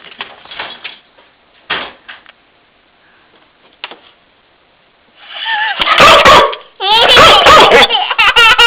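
A short dull thump, then from about five seconds in a dog barking and yelping excitedly in loud, wavering cries.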